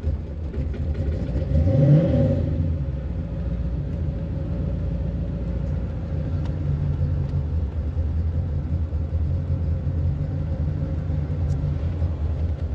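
Corvette C4 V8 engine idling steadily, heard from inside the cabin, with a brief rise and fall in revs about two seconds in.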